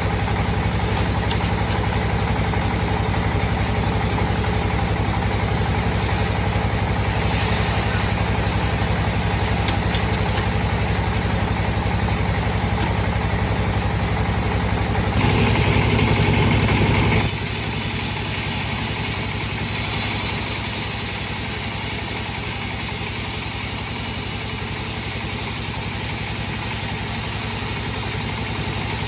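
Sawmill bandsaw machine running steadily with a low hum. About fifteen seconds in it gets louder for a couple of seconds, then drops suddenly to a quieter, steady running.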